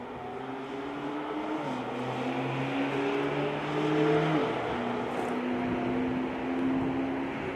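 Lamborghini Revuelto prototype's V12 engine accelerating through the gears. Its pitch rises, drops back at two upshifts about one and a half and four and a half seconds in, and climbs again, getting louder toward the middle.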